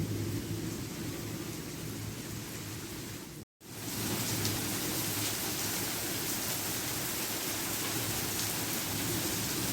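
Heavy rain pouring steadily onto surfaces, with faint individual drips ticking now and then. The sound cuts out completely for a moment about three and a half seconds in, then the rain resumes.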